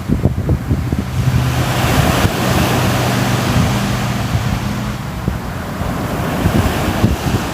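Sea waves washing in, with wind buffeting the microphone in low thumps. A steady low hum sits under the surf for a few seconds in the middle.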